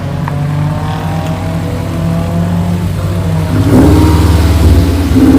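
Car engine running steadily, then getting louder as it revs up about three and a half seconds in.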